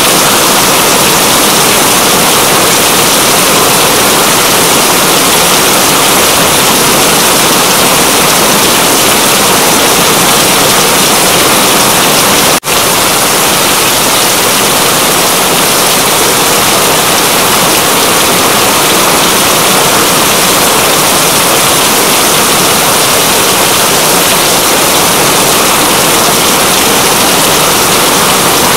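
Steady, dense rain falling hard, a loud even hiss, with a momentary dropout about halfway through.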